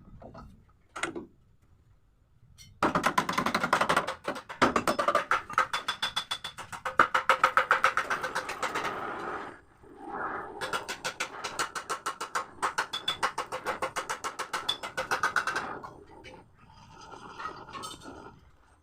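Rapid metal-on-metal hammering on the sheet-metal body of a Mitsubishi L300 van during panel beating. The blows come in two long, fast runs with short ringing tones, with a few scattered, softer knocks before and after.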